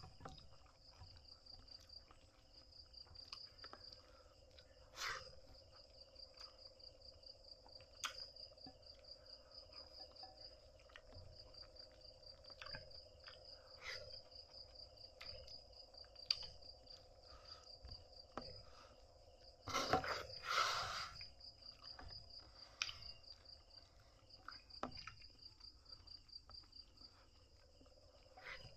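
Crickets chirping in a steady, fast-pulsing high trill, over a faint low hum, with scattered clicks and a louder noisy burst about twenty seconds in.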